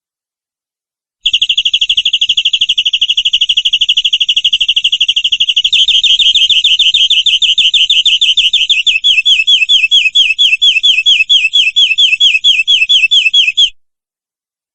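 Canary lure song: a canary singing one long rapid trill that changes about halfway into a slower run of downward-slurred notes, then stops abruptly.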